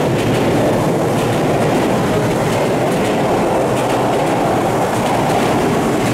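Electric commuter train moving along the platform and past, a steady rumble of wheels and running gear on the rails.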